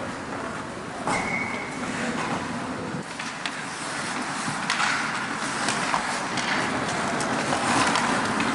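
Outdoor ambience: a steady rushing noise with scattered faint knocks and a brief single whistle-like tone about a second in.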